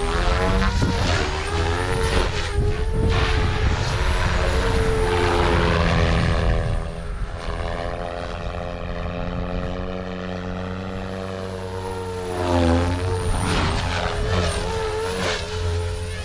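OMPHOBBY M4 electric RC helicopter flying 3D at about 2700 rpm head speed: a whining rotor tone that wavers up and down in pitch with the manoeuvres, over wind noise on the microphone. It is louder for the first six seconds, softer through the middle, and swells again about two-thirds of the way through.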